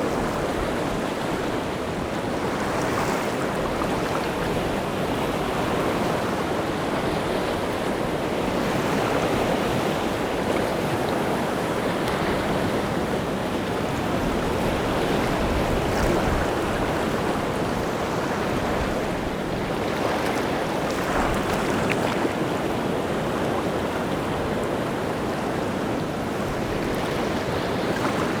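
Rough sea surf: waves breaking and washing on the shore in a continuous roar that swells and eases, with wind in the background.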